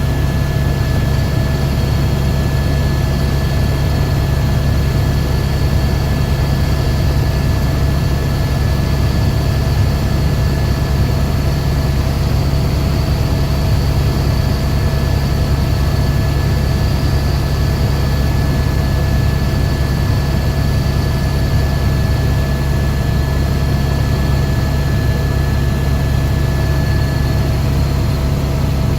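Helicopter in flight: a loud, steady low rotor and engine drone with a thin, steady high whine above it.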